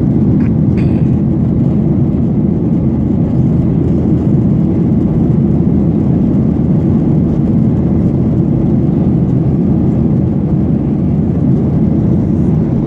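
Steady, loud cabin roar of a Boeing 737-800 in flight under engine power, heard from inside the passenger cabin, its CFM56-7B turbofans and airflow making an even low rumble without change.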